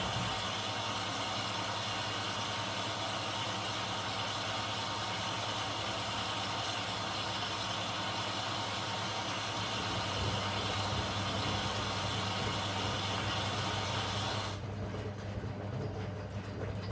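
Zanussi DL22 washing machine running: a steady hiss over a low hum, the hiss cutting off suddenly near the end and leaving the hum.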